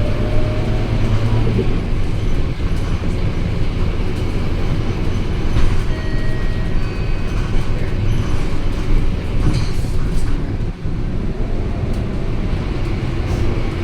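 Scania K230UB bus on the move: steady low engine drone and road noise, with scattered clicks and rattles.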